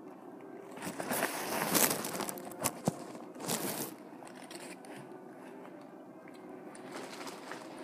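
Close-up biting and chewing of food: loud crunchy, crackling bites from about a second in to about four seconds, with a few sharp clicks near the three-second mark, then quieter chewing.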